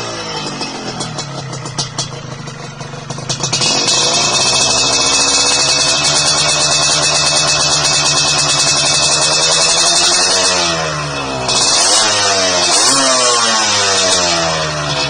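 Motorcycle engine revving through a chrome 'king udang' racing exhaust. The revs fall at first, climb about three and a half seconds in and hold high and steady for several seconds. They drop at about ten seconds, then rise and fall in several quick blips near the end.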